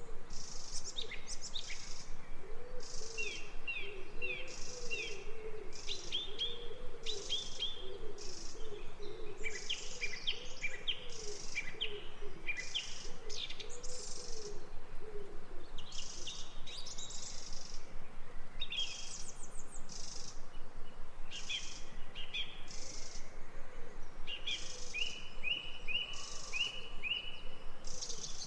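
Birds chirping and trilling in short repeated phrases over a high buzzy pulse that repeats about once a second, with a run of low repeated hooting notes through the first half.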